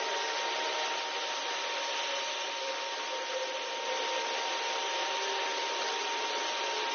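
Pulsed laser cleaning head working on a steel railway wheelset: a steady hiss with a steady high whine, the whine cutting off near the end.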